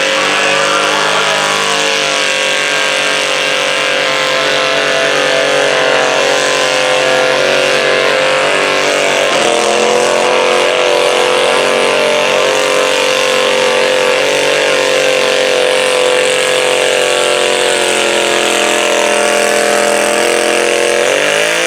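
Modified garden tractor's pulling engine running flat out at high, steady revs under load during a pull. The pitch sags briefly about nine seconds in, then falls away at the very end as the throttle comes off.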